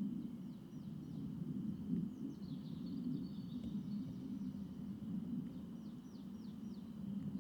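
Songbirds singing in a forest: runs of short, high, falling notes repeated several times a second, with a busier twittering phrase about two seconds in, over a steady low rumble.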